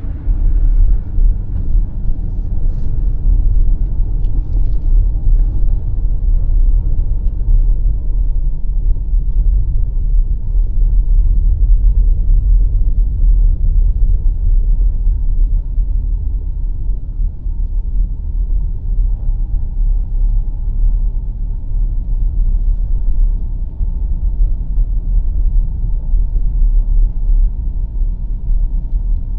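BMW X5 M50i driving on snow-covered roads: a steady low rumble of tyre and road noise.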